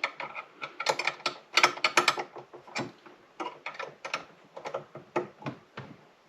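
Irregular metallic clicks and clinks from working on a monitor arm's tensioning screw, quick and close together for the first few seconds, then more spaced out.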